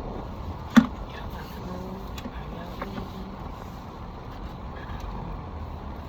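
Steady low road and engine rumble heard from inside a moving car's cabin, with one sharp click about a second in.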